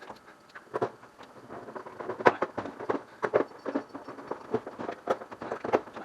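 Irregular knocks, clunks and scrapes of dryer parts being handled as the drum of a Frigidaire washer-dryer combo is worked into place, with the loudest knock about two seconds in.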